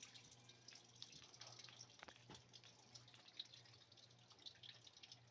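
Near silence: faint scattered ticks over a low steady hum.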